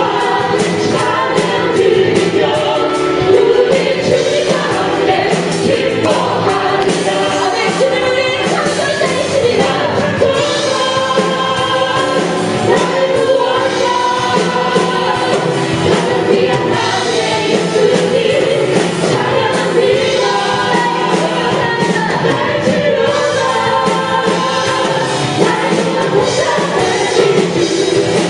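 Live contemporary worship music: a praise band accompanying a group of singers in a song of praise, sung continuously.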